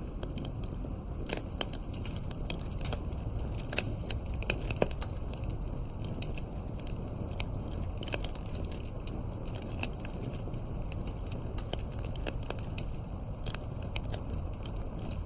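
Campfire burning: irregular sharp crackles and pops of wood over a steady low rumble of flame.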